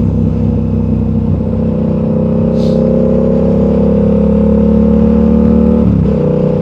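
Motorcycle engine pulling in gear on the road, its note climbing slowly as the bike accelerates, with a brief break in the note near the end.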